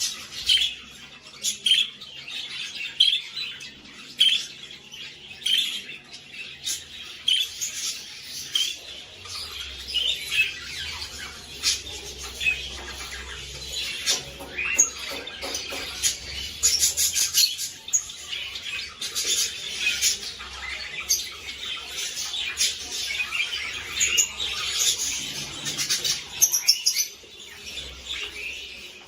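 Budgerigars chirping and squawking. At first there are short high chirps about once a second; from about a third of the way in the calls become denser and raspier and keep on in quick succession.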